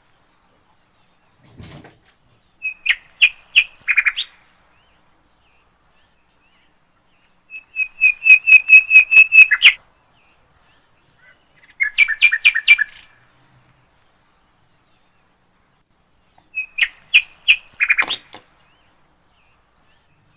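A songbird singing short phrases of rapid, evenly spaced chirps, four phrases separated by a few seconds of silence; the longest, about halfway through, runs to around a dozen notes.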